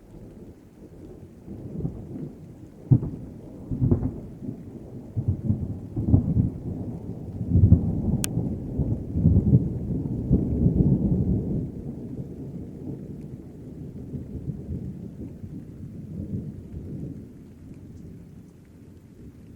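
Thunder rumbling over rain, with several sharp cracks in the first seven seconds, building to its loudest about eight to eleven seconds in and then slowly dying away.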